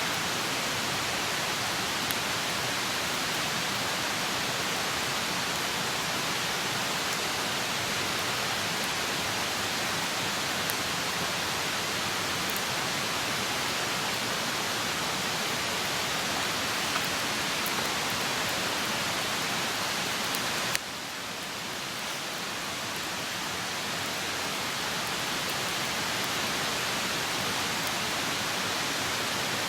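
Wood campfire burning with a steady hiss and a few faint, scattered crackles. The hiss drops suddenly about two-thirds of the way through and then slowly builds back.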